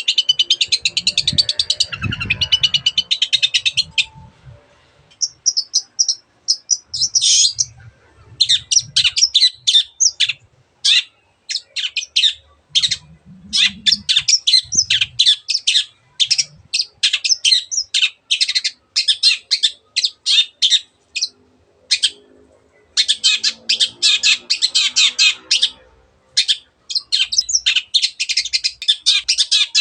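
Long-tailed shrike (cendet) singing a fast, chattering song: long runs of rapid, short, high notes, with a pause about four seconds in and another brief break near the middle.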